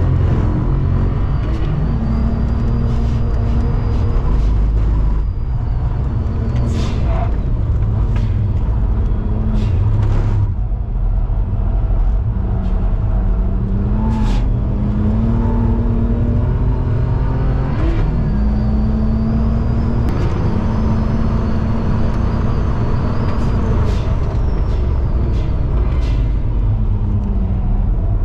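Turbocharged BMW E92 335i straight-six heard from inside the cabin under hard track driving. The engine note climbs in pitch again and again, dropping sharply at each upshift or lift, over a heavy road and wind rumble with scattered short clicks.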